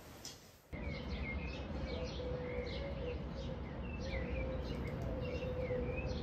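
Small birds chirping with many short, quick high calls, over a steady low hum and a low rumble. The sound begins abruptly less than a second in.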